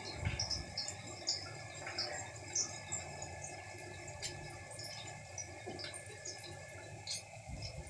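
Sliced onions and green chillies sizzling in hot oil in a steel kadai: a steady sizzle with many small scattered crackles. A low thump shortly after the start and another near the end.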